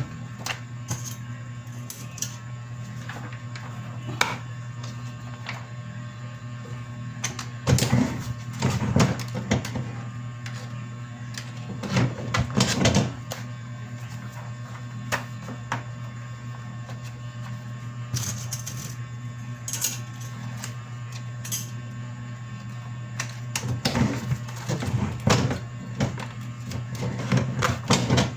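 Printing machine running with a steady low hum, broken by bursts of mechanical clatter several times.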